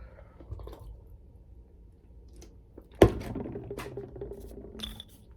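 A single sharp knock about three seconds in, with faint handling and rustling noise after it.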